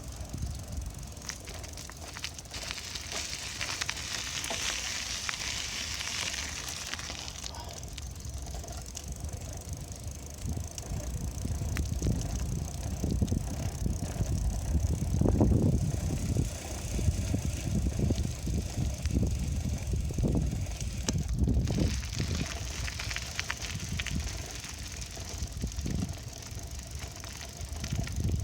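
Bicycle being ridden: a steady low rumble of wind on the microphone with tyre noise and small rattles and clicks from the bike, plus two stretches of higher hiss.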